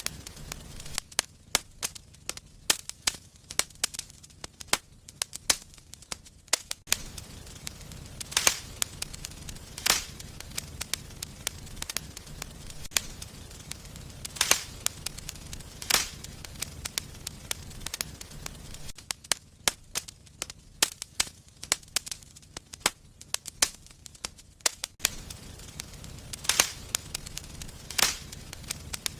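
Wood fire in a fireplace crackling, with sharp pops and snaps coming irregularly several times a second and a low, steady rush of flame underneath through long stretches.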